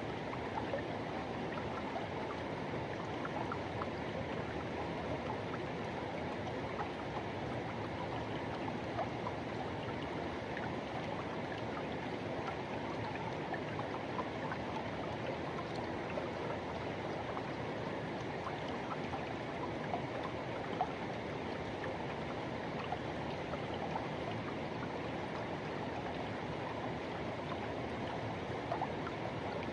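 Forest river water rushing and gurgling over rocks in a steady, even flow, with small splashes now and then.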